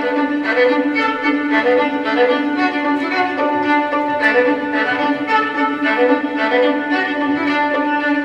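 Bowed string music led by a violin: a melody of short notes moving over one steady held low note.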